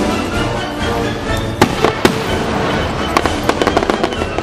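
Fireworks bangs and crackles over background music: two sharp reports about a second and a half in, then a run of quick crackles near the end.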